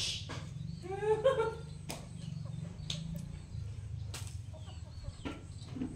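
A chicken calling: one short run of rising notes about a second in, with a few sharp clicks and a steady low hum underneath.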